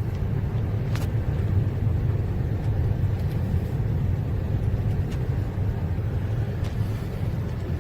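A car driving, giving a steady low rumble of engine and tyres with a few faint ticks.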